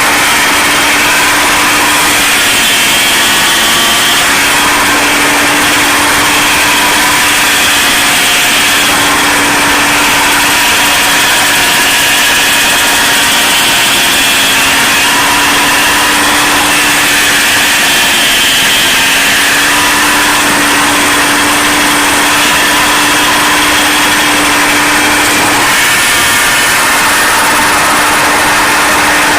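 John Deere 5225 tractor's diesel engine driving a PTO stump grinder, running loud and steady. Its pitch sags slightly a few times.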